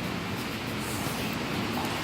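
Steady rain falling, a continuous even hiss and patter with no distinct hits.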